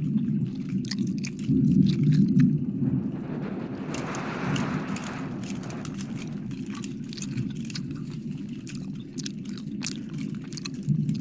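Close-microphone ASMR wet mouth sounds: licking and smacking with many sharp wet clicks. There is a low rumble throughout, loudest about two seconds in, and a breathy rush about four to five seconds in.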